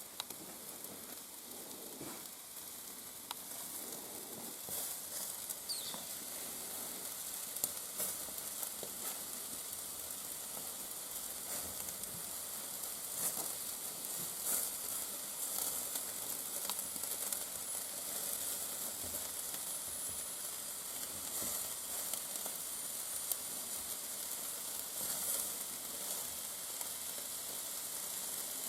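Shashlik on skewers sizzling over the fire in a fireplace: a steady hiss with scattered crackles and pops.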